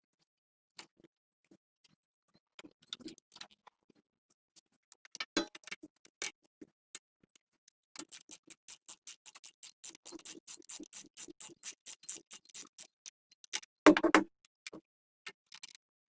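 Workshop hand-tool clicks and taps on the generator: scattered clicks, then a quick even run of clicks, about six a second, for some five seconds, and a loud clunk near the end.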